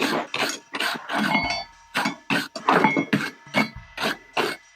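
Forging hammer blows on steel on an anvil: a steady run of about two to three strikes a second, each leaving a short metallic ring.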